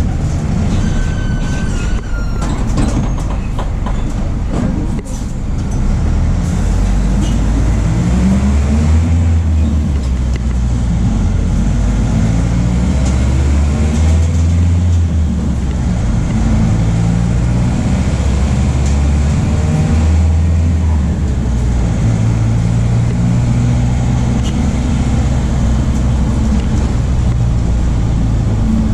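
MAN D0834 four-cylinder turbodiesel of a VW 17.230 OD bus running under load, its pitch climbing in several rises with short breaks between, as through gear changes. In the second half it runs steadier with smaller rises. A few clicks and rattles come in the first few seconds.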